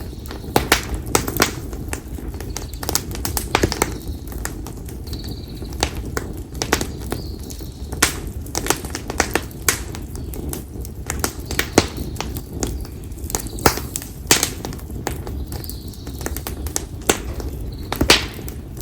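Konara oak firewood burning in a campfire, crackling with many irregular sharp pops over a steady low rustle of the flames. Short faint bird calls come every few seconds.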